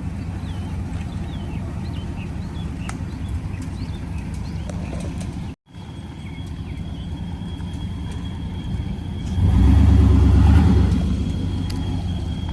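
A vehicle engine running steadily at a low rumble, with birds chirping. After a brief dropout, the engine sound swells much louder about nine seconds in and eases back down.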